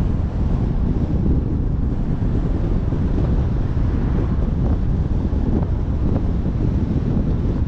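Wind buffeting the microphone: a steady, loud, low rumble without pauses.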